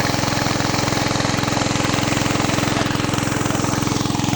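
Petrol engine running at a steady speed, a fast, even pulsing beat.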